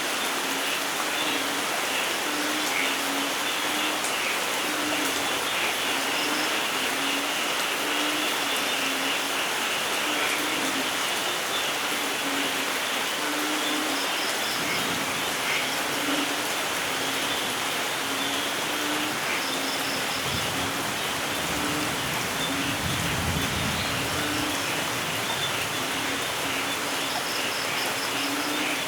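Steady rain falling in a forest, with a low rumble of distant thunder swelling past the middle. A low note repeats about once a second, with faint higher chirps.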